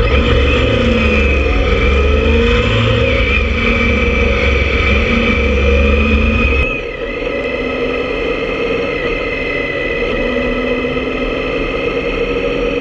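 Motorcycle engine running on the move, with a strong low rumble that drops away sharply about seven seconds in.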